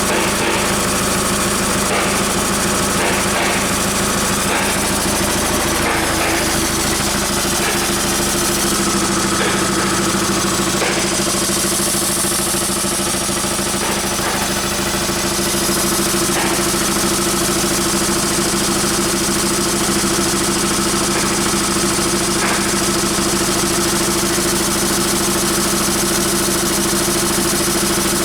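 Hyundai/Kia D4CB 2.5-litre four-cylinder diesel engine running at a steady speed, with no revving, during an oil pressure check, with a few faint clicks in the first dozen seconds.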